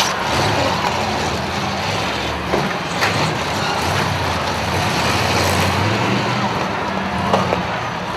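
Several motor home engines running and revving in a demolition derby, a steady rumble with a few short knocks from collisions.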